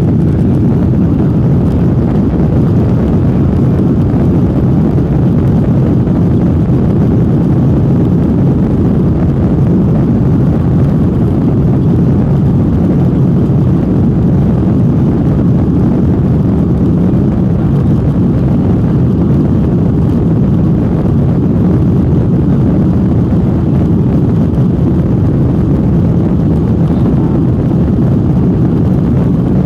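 Jet airliner's engines at takeoff thrust: a loud, steady, low rumble with no change in pitch.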